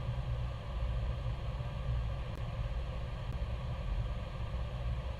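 Steady low rumble of jet airliner flight-deck noise, with a lighter hiss above it and no distinct events.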